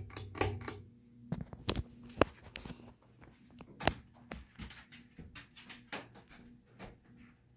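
52-inch Hunter ceiling fan running on low speed: a faint steady motor hum under scattered sharp clicks and knocks, two of them louder, about two and four seconds in.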